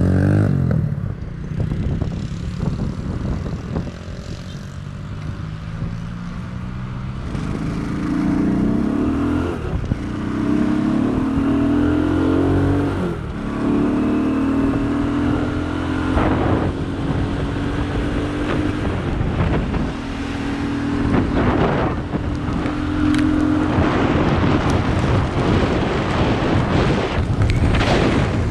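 Rain with road traffic: a vehicle's engine climbs in pitch in several steps like gear changes, then holds steady, over a continuous hiss of rain and tyres on wet road.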